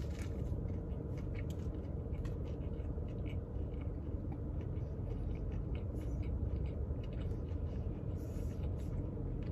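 A person chewing a mouthful of breaded chicken biscuit: many small irregular mouth clicks and smacks. Under it runs a steady low hum from the car cabin.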